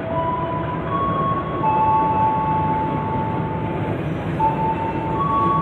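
Argo Muria passenger carriages rolling past along the platform as the train pulls in, a steady rumble with several high squeals from the wheels that come and go, shifting in pitch.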